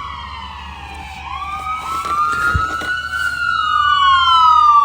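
Fire engine siren wailing in a slow cycle, falling, then rising about a second in and falling again near the end, getting louder as the truck approaches. A low steady engine hum runs beneath it.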